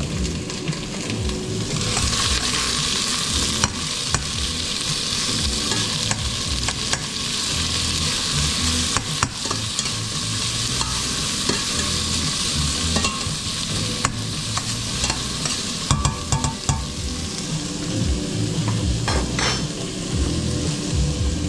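Food sizzling in a hot frying pan and being stirred, the sizzle growing louder about two seconds in, with scattered clicks and knocks of the utensil against the pan.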